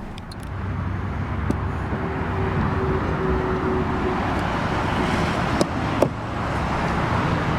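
Steady road-traffic noise that swells within the first second and holds, with a few light clicks.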